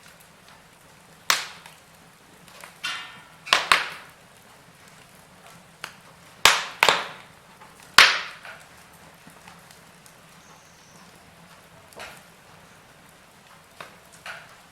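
Wood fire in a fireplace crackling, with irregular sharp pops over a faint steady hiss. The loudest three pops come in quick succession between six and eight seconds in.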